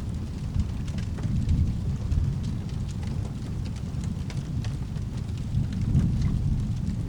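Thunderstorm ambience: a low, continuous rumble of thunder under steady rain, with scattered sharp crackles throughout, swelling a little about six seconds in.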